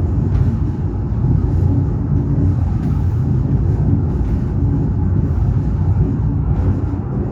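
Train running steadily, a continuous low rumble with faint ticks and clatter over it.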